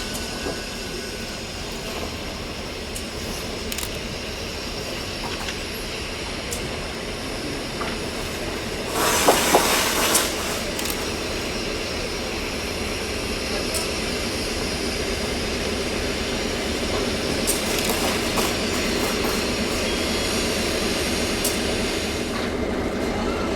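Train running along the track: a steady rail noise with scattered sharp clicks from the wheels, and a louder rush of noise lasting about a second, around nine seconds in.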